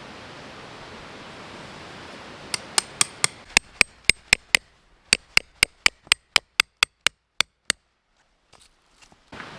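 Steel tent peg being driven into the ground with a hammer: a steady run of about twenty sharp, ringing metal strikes, around four a second, after a steady background hiss.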